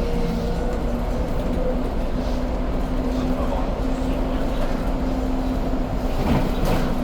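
Inside a city bus under way: steady engine drone and road noise with a held steady hum, and a brief clatter about six seconds in.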